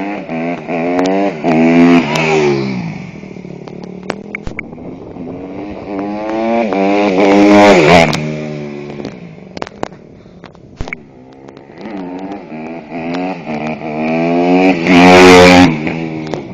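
Honda CRF150R motocross bike's 150 cc four-stroke single opening up hard three times. Each time the engine note climbs to a high-pitched peak, about two, eight and fifteen seconds in, then drops back as the throttle closes.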